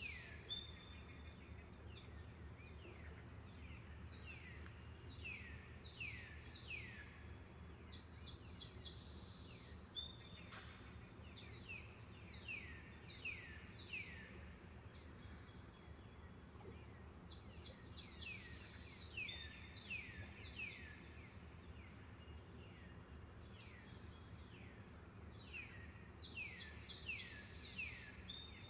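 Forest songbird singing phrases of several quick falling whistled notes, the phrases recurring every few seconds over a steady, high-pitched insect drone.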